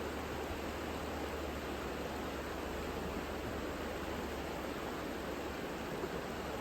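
The Savica river flowing: a steady, even rush of water with no breaks.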